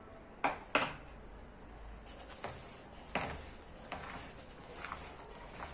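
Kitchen utensil knocking and scraping against a mixing bowl while cake batter is mixed. There are two sharp knocks about half a second in and another about three seconds in, with lighter taps and rubbing between them.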